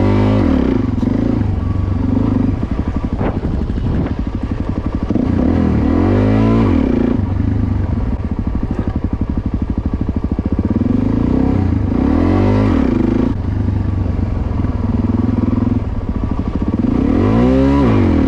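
Motorcycle engine running under way, its revs swelling up and dropping back sharply four times, typical of throttle bursts for wheelie practice.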